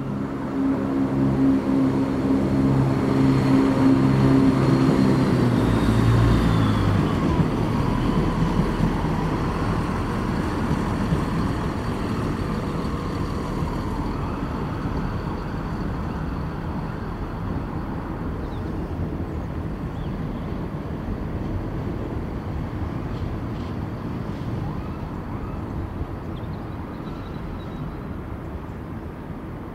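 Diesel train passing: its engine is loudest in the first few seconds, its note dropping about six seconds in, then the rumble of the train on the rails slowly fades.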